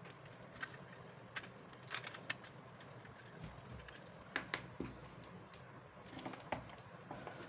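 Scattered light clicks and taps at irregular intervals, from small hard objects being handled.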